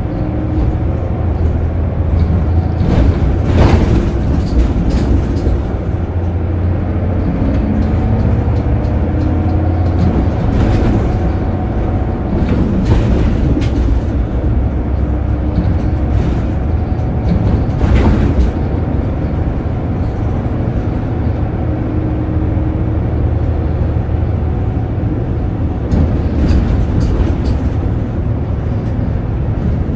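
City route bus heard from inside the cabin while driving: a steady low engine and road rumble, with the engine note slowly rising and falling. A few sharp knocks or rattles come through along the way.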